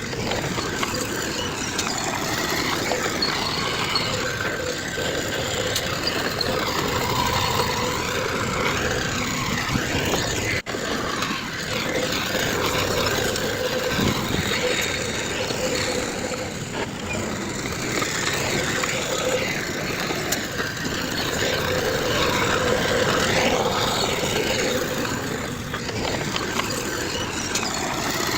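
Heavy diesel earthmoving machinery running steadily at a work site, with a momentary break in the sound about ten and a half seconds in.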